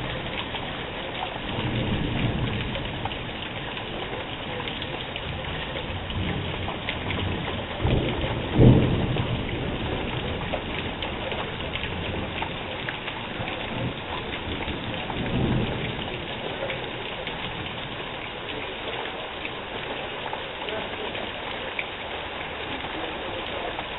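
Heavy rain falling steadily, with thunder rumbling three times: a low rumble about two seconds in, a sharp, loud clap about eight seconds in, and another rumble past the middle.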